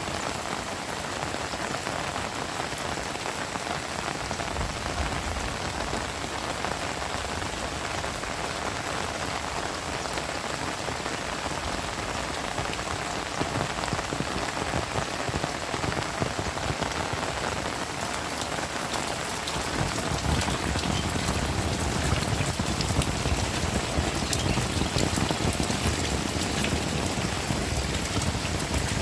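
Heavy rain falling, a dense steady patter of drops, growing fuller and louder about twenty seconds in.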